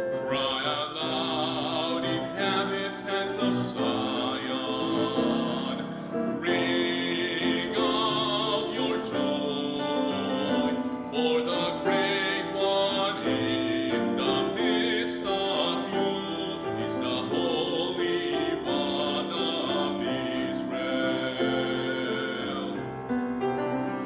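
A hymn sung with piano accompaniment, the voice moving from note to note without a break.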